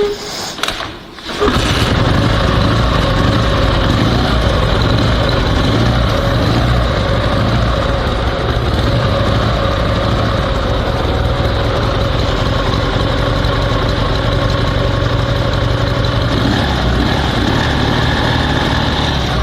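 Dnepr MT16 sidecar motorcycle's flat-twin engine kick-started, catching about a second and a half in, then idling steadily.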